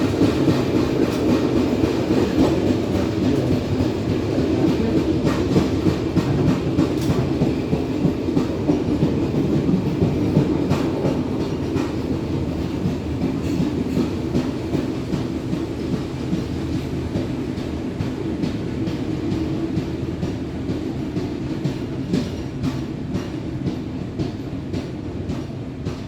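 Passenger train carriage rolling along the track, a steady rumble of wheels on rails with scattered clicks from the rail joints, growing gradually quieter toward the end.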